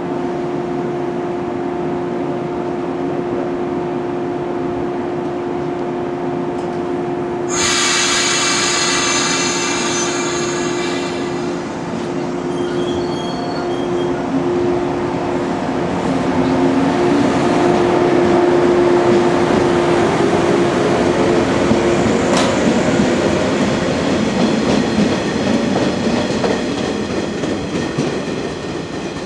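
Electric multiple-unit train pulling out of a station, with a steady motor hum that rises in pitch from about halfway as it gathers speed, and wheels running over the rails. About seven seconds in, a loud high blast lasts about three seconds.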